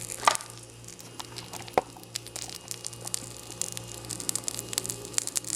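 Tea bag soaked in paraffin wax burning, its flame crackling and sizzling in scattered small pops over a steady low hum. A louder knock comes about a quarter second in and a sharp click near two seconds.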